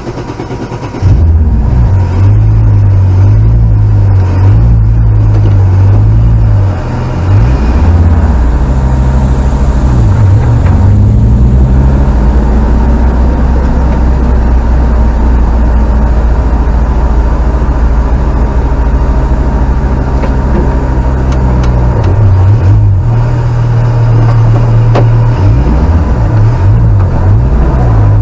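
Audi Quattro S1 rally car's turbocharged five-cylinder engine catching about a second in and running loud. It is revved up and down repeatedly in the first several seconds, holds a steady note in the middle, and is revved again near the end.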